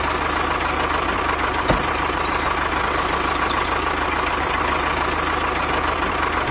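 A heavy vehicle engine running steadily at idle, with a fast low throb under an even mechanical noise. There is one short click a little under two seconds in.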